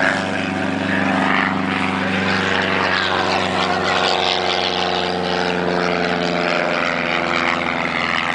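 A large piston engine running steadily and loudly, with a hiss over its drone and its pitch sagging slightly about midway.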